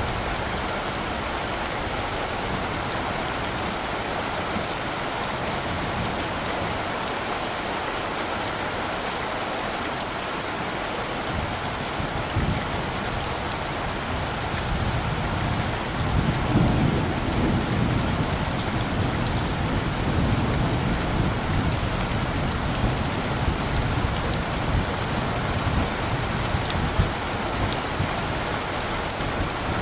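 Steady rain falling, with a low rumble of distant thunder that swells about halfway through and keeps rolling.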